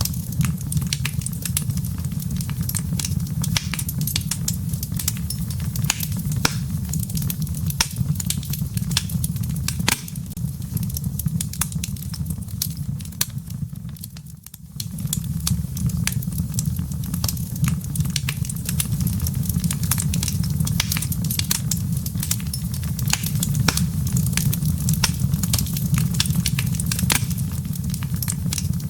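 Wood fire burning in a fireplace: a steady low rumble of flames with frequent sharp crackles and pops from the embers. The sound briefly dips away about halfway through, then returns.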